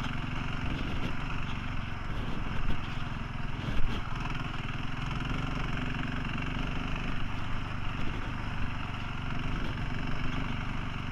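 Motorcycle engine running steadily while riding, with a steady rush of wind and road noise and a couple of brief louder bumps about three and four seconds in.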